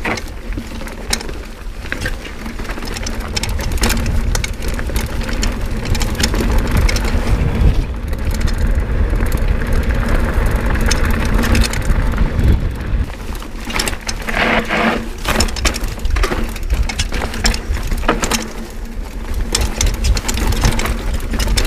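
Mountain bike riding down a rough dirt trail: tyres crunching and rattling over stones and roots, with frequent sharp knocks from the bike and wind rumbling on the microphone. A steady low hum runs underneath.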